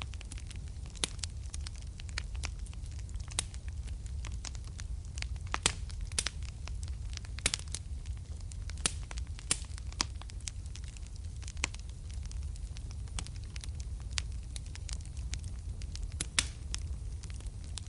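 Wood fire burning in a fireplace: a steady low rumble of flames with irregular sharp crackles and pops of burning logs, a few louder pops among them.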